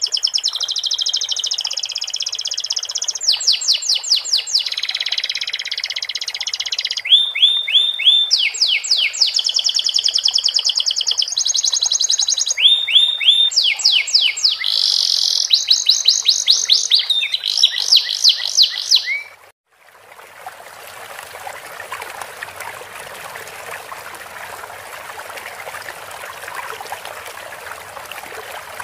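Domestic canary singing fast repeated trills and rattling phrases, its song filled with sikatan londo (flycatcher) phrases. About two-thirds of the way in the song cuts off suddenly and a steady sound of trickling, running water takes over.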